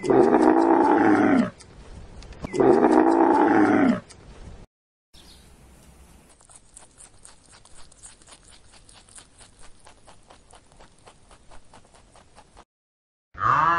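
Dromedary camel calling twice, a loud groaning bellow about a second and a half long each time. Then a faint, rapid ticking goes on for several seconds.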